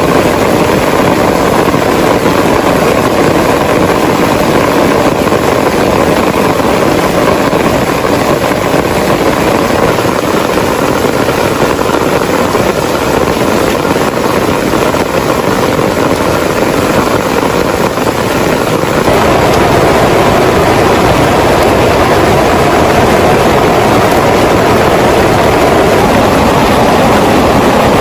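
Heavy rain drumming steadily on a tent, a dense even noise that gets louder about nineteen seconds in.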